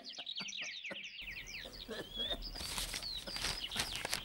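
Small birds chirping in quick, repeated falling notes, over faint clicks and rustling; the background hiss changes abruptly about a second in.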